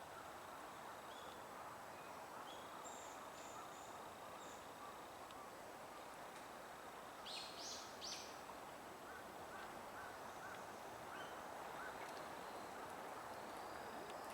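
Wild birds calling over a steady background hum: faint thin high notes, a louder call of three quick notes about seven seconds in, and a run of about six short notes just after.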